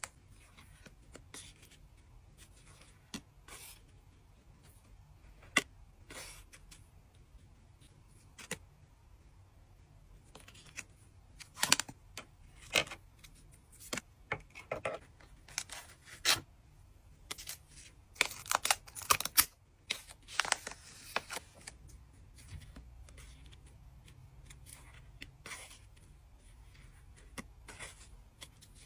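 My Little Pony trading card packs being opened by hand: foil wrappers crinkling and tearing, with cards tapped and slid against each other. The sounds come in short, scattered bursts, thickest through the middle of the stretch.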